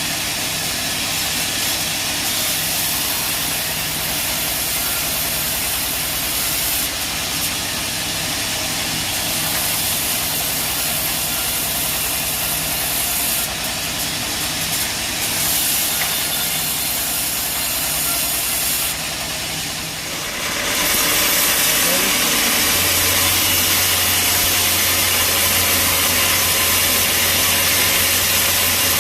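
Bandsaw sawmill running with its engine going steadily. About two-thirds of the way through, the sound gets louder and a strong steady hiss sets in, then a low hum joins.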